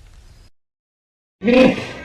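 A horse whinnying: a loud, pitched call starts suddenly about a second and a half in, after a moment of silence.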